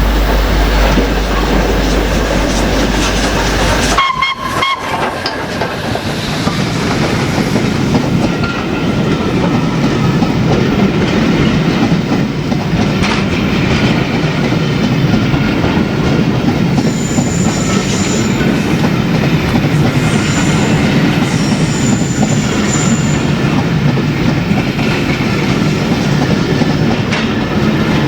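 A train running past at speed, its wheels clattering steadily over the rails. The sound changes abruptly about four seconds in, and brief high squeals come a few times in the second half.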